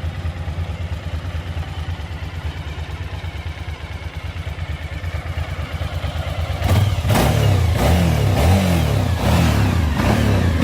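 Suzuki V-Strom's V-twin engine idling steadily, then blipped through a run of quick throttle revs, each rising and falling, starting about two-thirds of the way in.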